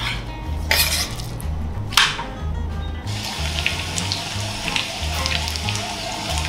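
Background music with a bass line throughout. In the first two seconds a knife makes two sharp strokes slicing raw chicken breast on a wooden board. From about three seconds in, a pan of fried chicken sizzles in its garlic butter sauce with small crackles.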